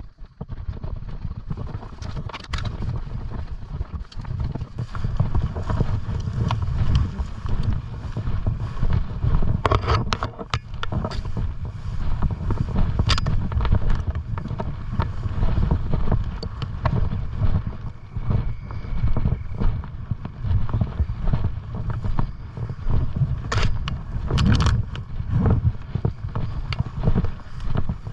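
Wind buffeting the microphone in a steady low rumble while someone walks through field cover, with footsteps and brush crackling now and then.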